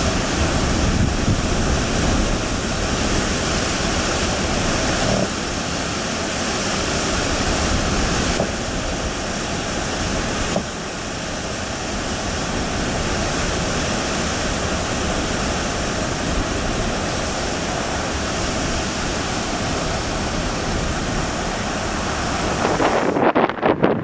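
Downburst storm: driving rain and strong wind making a steady rushing hiss. About a second before the end the hiss drops away and wind gusts buffet the microphone.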